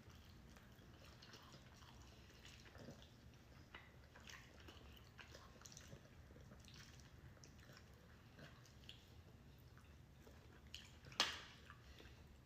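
Faint eating sounds: soft chewing and scattered mouth smacks, with one sharp click about eleven seconds in.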